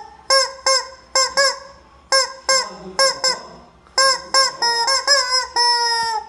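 Rubber squeeze-toy chicken squeezed over and over, giving about fifteen short honking squawks of much the same pitch, some in quick pairs, with a longer held squawk near the end.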